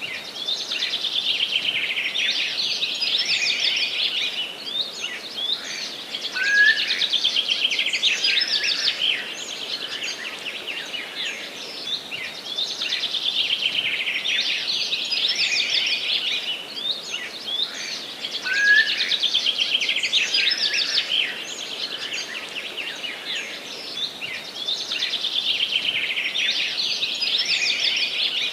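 Songbirds singing in a forest: dense, rapid chirping and trilling phrases that swell and fade about every six seconds, with a short rising whistle twice, over a faint steady hiss.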